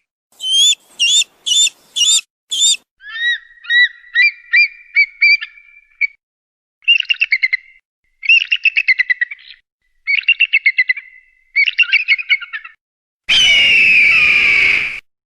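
A sequence of hawk calls: five short, sharp high calls, then a run of quick rising notes, then several bursts of rapid chattering, and near the end a long, loud scream. These are raptor alarm and territorial calls of the kind played to drive smaller birds away.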